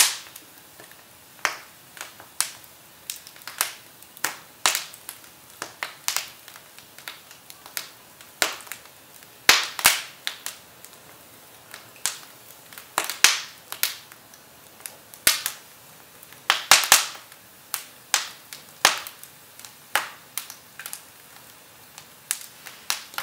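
Firewood burning in a fireplace, crackling with irregular sharp pops, sometimes several close together and sometimes a second or more apart.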